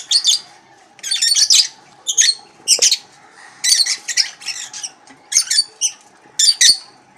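Lovebirds chattering in shrill, high-pitched squawks that come in quick clusters about once a second.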